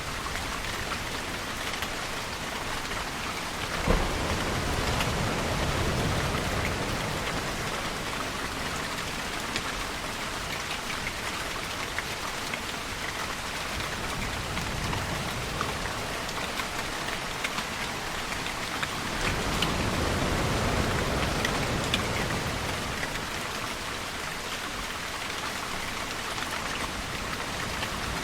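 Steady rain falling on surfaces, a dense hiss with fine drop ticks. A sharp hit comes about four seconds in, and low rumbles swell twice, then and again about twenty seconds in.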